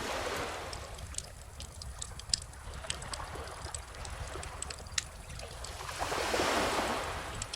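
Wood fire crackling with scattered sharp pops over gentle ocean waves. A wave swells in about six seconds in and fades near the end, with a low steady rumble underneath.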